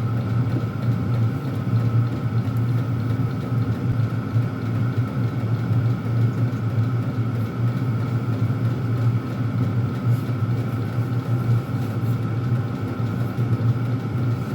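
Chinese diesel air heater running: a steady hum from its blower and burner, with faint ticks from the small fuel pump, each tick a little shot of diesel into the burn chamber.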